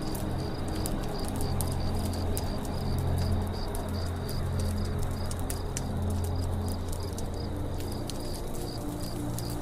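Campfire crackling with scattered sharp pops, over steady insect chirping about three times a second and a low rumble.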